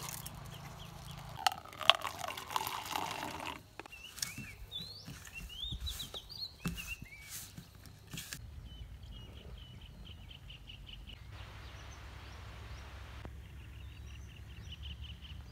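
Small birds chirping in short rising and falling notes, later a rapid repeated trill, over a steady outdoor hum. In the first few seconds there is a run of rustling and clicks, with one sharp click about two seconds in.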